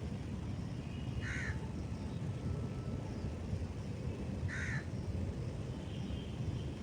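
A crow cawing twice, about three seconds apart, over a steady low rumble.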